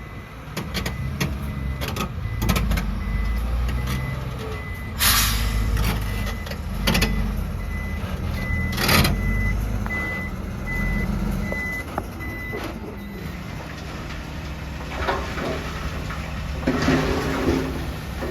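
Diesel dump truck reversing, its backup alarm beeping evenly over the engine's running rumble. The beeping stops about two-thirds of the way through. Several short, loud hissing bursts come in the middle.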